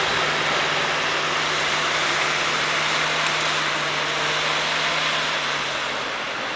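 Forest-machine-mounted Erjo chipper and its engine running: a loud, steady rushing noise over a steady low hum. The hum drops slightly in pitch and the whole sound eases a little about five and a half seconds in.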